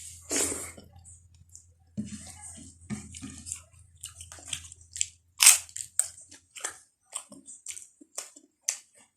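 Close-up mukbang eating sounds: wet chewing and lip-smacking of pork and rice, with irregular short clicks and crunches. The loudest smack comes about five and a half seconds in.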